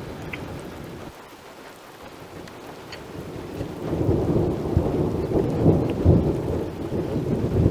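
Thunder rumbling low, quieter at first, then building into a louder, longer roll about halfway through.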